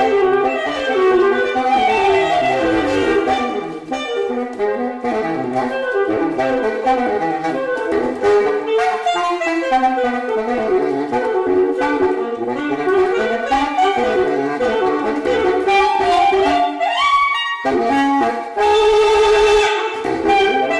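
Saxophone playing a fast, winding melodic line, with a quick rising run about three-quarters of the way through and a long held note near the end.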